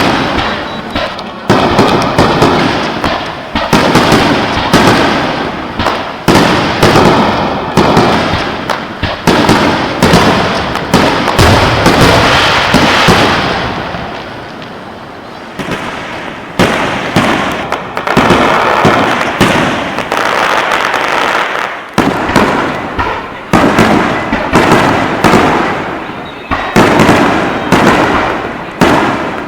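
Aerial fireworks display: shell bursts booming one after another in quick succession, each bang trailing off in an echo. The bursts ease into a brief lull about halfway through, then pick up again just as densely.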